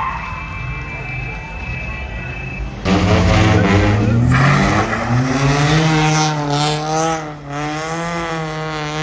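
Car engine revving: a rumble, then about three seconds in it comes on loud, climbs in pitch and holds at high revs with a slight waver.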